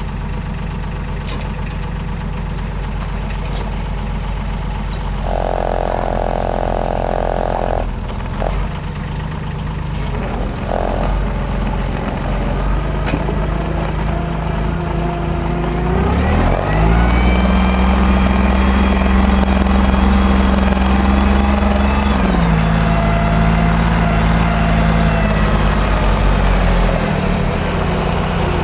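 Timberjack forwarder's diesel engine running. About sixteen seconds in it revs up sharply, holds high for several seconds, then drops back in two steps.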